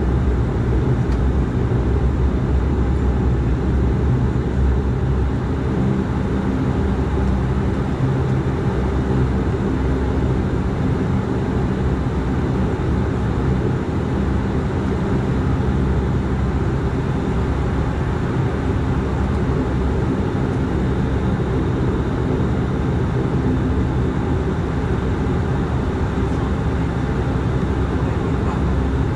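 The Dash 8-400's Pratt & Whitney PW150A turboprop engines and propellers running steadily, heard from inside the passenger cabin as a continuous low drone.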